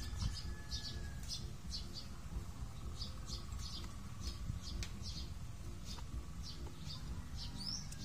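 A small bird chirping over and over, short high chirps about twice a second, with a short gliding note near the end, over a steady low rumble.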